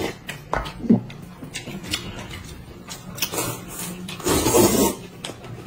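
Eating sounds: scattered sharp clicks, then two short, louder noisy bursts a little past the middle, over a steady low hum.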